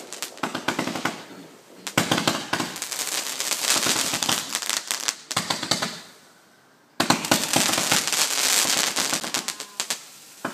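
Fireworks firing in rapid volleys of cracks and crackle. One dense volley starts suddenly about two seconds in, followed by a short lull, and a second volley starts about seven seconds in.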